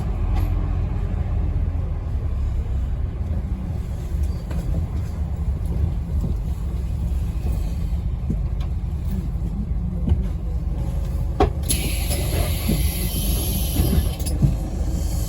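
Scania N270UD double-decker bus's diesel engine running with a steady low rumble heard from inside the bus. About twelve seconds in, a click is followed by a hiss of compressed air lasting about three seconds.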